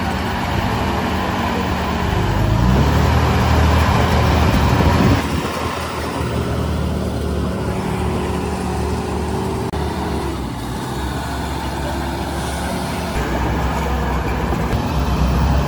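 Heavy diesel engine of earth-moving machinery running, revving up about two seconds in and dropping back suddenly about five seconds in, then running steadily.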